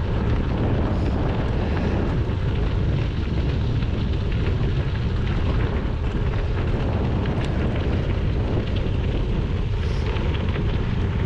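Steady wind rumble buffeting a GoPro's microphone as the bike rolls along.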